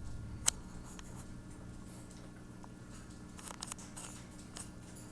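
A sharp click about half a second in, then a few faint taps later on, over a steady low hum.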